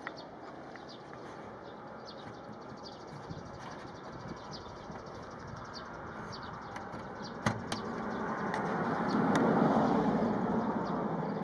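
Outdoor background noise with a couple of sharp clicks, and a vehicle passing by that swells up to its loudest near the end and then fades.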